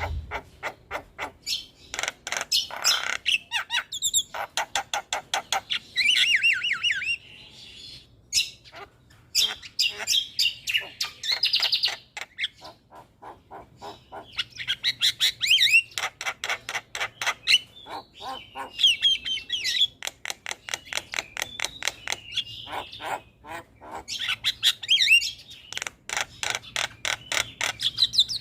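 Javan myna (jalak kebo) song: bursts of fast, harsh chattering rattles mixed with warbled whistled phrases, repeating again and again.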